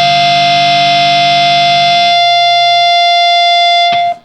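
Harsh noise drone from a noisecore track: a loud wall of steady, held tones with no rhythm. The low end drops out about two seconds in, the upper tones hold on, and then it cuts off abruptly near the end.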